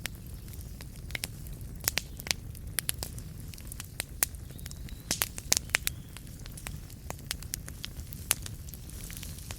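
Burning wood fire crackling: irregular sharp pops and snaps over a steady low rumble of the flames, with a quick flurry of louder pops about halfway through.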